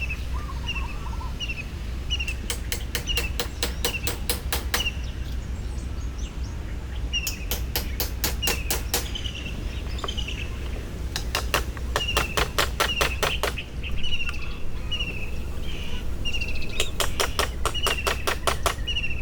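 A bird repeating a short chirp about twice a second, over a steady low rumble. Four times, a run of rapid sharp clicks, about eight a second, lasts a couple of seconds and then stops.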